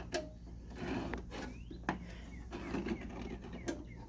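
Window air conditioner's rotary thermostat control being turned: a few sharp clicks with faint scraping, over a steady low hum.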